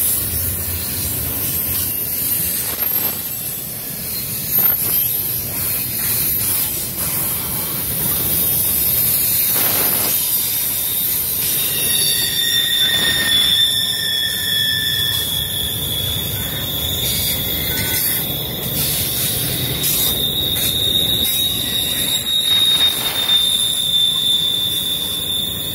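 CSX double-stack intermodal well cars rolling past on steel wheels, a steady rumble of wheels on rail with occasional knocks. A high, steady wheel squeal comes in about halfway and keeps going to the end.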